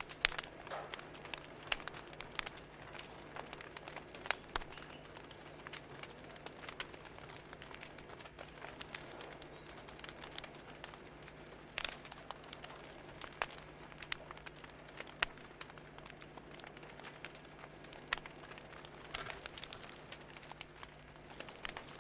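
Wood fire crackling, with frequent irregular sharp pops and snaps of varying loudness over a faint steady low hum.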